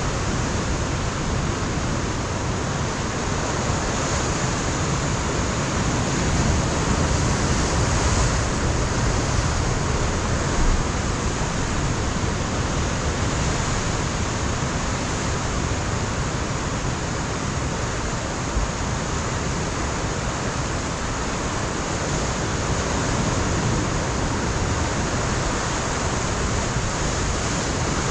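Ocean surf breaking on a rocky coastline: a continuous wash of waves with a deep low rumble, swelling slightly a few seconds in.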